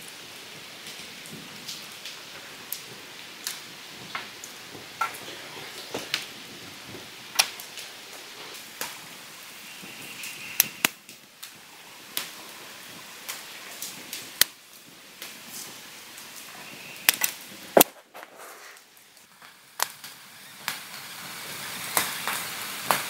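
Wood campfire crackling, with sharp, irregular pops over a steady low hiss; it goes quieter for a couple of seconds about eighteen seconds in.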